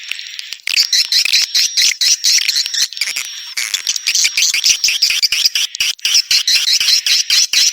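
Swiftlets twittering: a loud, dense, unbroken stream of high chirps and trills mixed with sharp clicks. It is the kind of swiftlet call track played to draw swiftlets into nesting houses.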